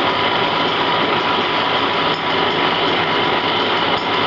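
Plastic-bag screen-printing machine running with a steady mechanical noise.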